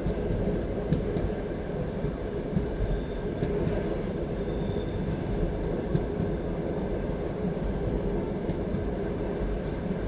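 Passenger train carriage running at speed, heard from inside the carriage: a steady rumble of wheels on rails with a few sharp knocks from the track.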